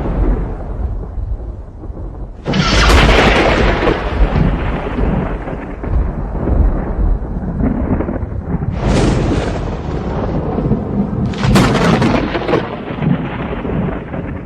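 Thunder rumbling, with three sudden cracks that each roll into a long, slowly fading rumble: the first a couple of seconds in, then two more close together later on.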